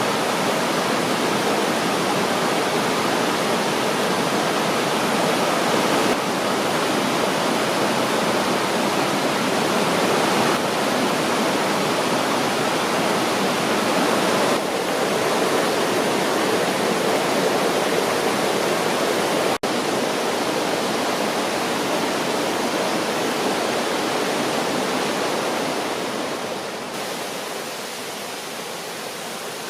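Mountain stream rushing over rocks: a steady, full rush of water that dips for a moment about twenty seconds in and softens near the end.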